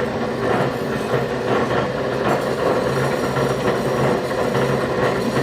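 Craftsman 12-inch bandsaw, converted for metal with a 1/3 hp motor and a 5-to-1 speed reducer, running slowly with its 14 TPI blade cutting through mild steel. The saw gives a steady hum under the blade's cutting noise.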